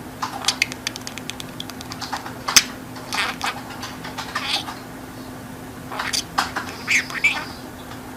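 A budgerigar chattering in short scratchy chirps and rapid clicks, with a steady low hum underneath.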